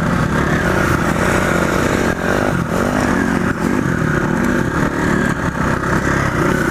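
Motorcycle engine running under way, its pitch wavering slightly as the throttle changes, over a steady rush of noise.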